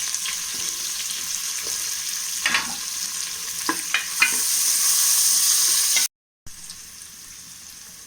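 Sliced onions sizzling in ghee in a pan, stirred so that the utensil clicks against the pan a few times. Near the end the sound cuts out for a moment and comes back quieter.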